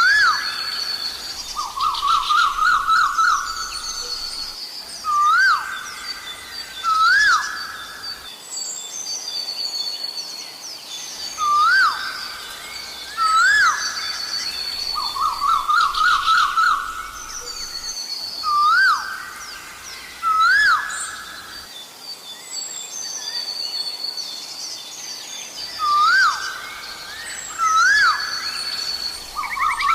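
Asian koel calling over and over: short rising notes in pairs, with runs of quick repeated notes between them. Other small birds chirp higher up throughout.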